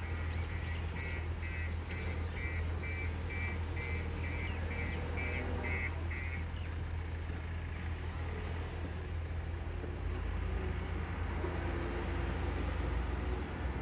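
Heavy diesel machinery running steadily, with a reversing alarm beeping about twice a second that stops about six seconds in.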